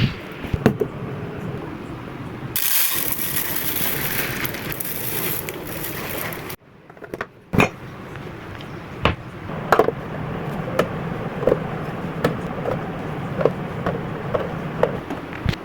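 Clicks and knocks of items being handled and set down, with a few seconds of loud hissing noise that cuts off suddenly before the clicking resumes.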